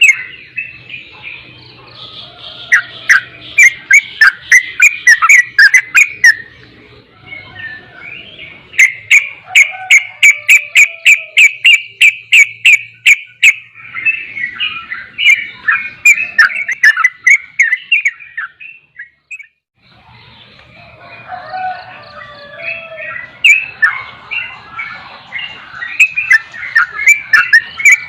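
Yellow-vented bulbul (trucukan) singing and chattering in quick bursts of notes. In the middle it gives a run of rapid, even notes at about four a second. It falls silent for a second or two past the middle, then starts chattering again.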